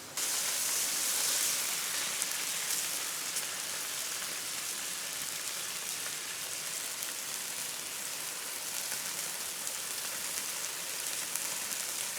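Meat sizzling as it grills over high heat: a steady hiss with small pops, starting suddenly just after the start.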